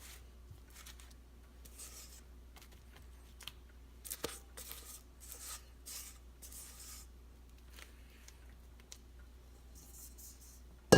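Soft, short scraping strokes of a utensil against a mixing bowl as thick cream-cheese and whipped-topping filling is scooped out into a pie crust, with one light knock about four seconds in.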